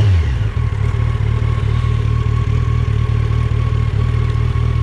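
Motorcycle engine idling with an even low beat, its revs dropping just as it begins. A faint steady whine sits above the idle.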